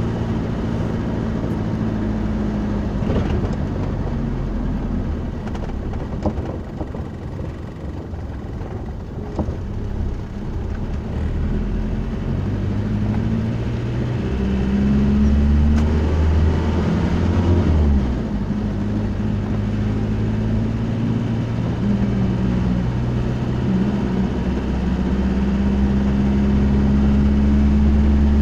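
Motor vehicle engine running with road rumble, a steady low drone. About halfway through, its pitch climbs, then drops suddenly, as at a gear change, and settles back to a steady drone.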